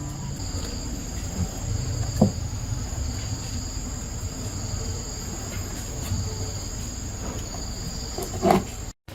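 Insects, crickets or similar, trilling steadily at a high pitch over a low rumble, with two short knocks, one about two seconds in and one near the end.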